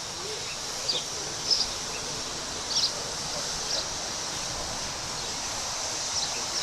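Outdoor background: a steady high hiss with five short, high-pitched chirps from small birds scattered through it, the loudest about a second and a half in.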